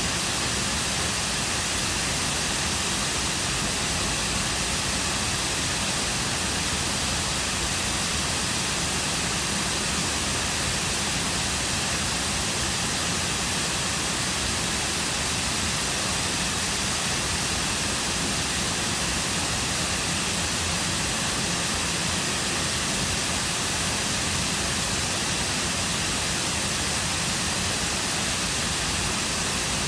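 Cascading waterfall: a steady, unbroken rush of falling water.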